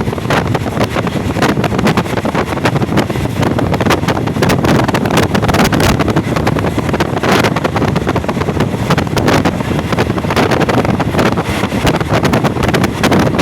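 Train running at speed: a steady rumble and rush of wind on the microphone, with frequent short clicks and rattles from the wheels and carriage.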